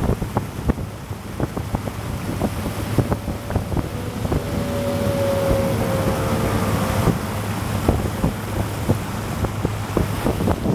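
Motorboat engine running steadily under way, with wind buffeting the microphone. A higher held whine sits over it for a few seconds in the middle.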